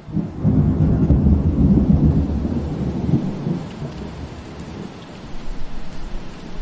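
A long, low roll of thunder over steady rainfall. The rumble swells about half a second in, is loudest over the next two to three seconds, then slowly fades, leaving the hiss of the rain.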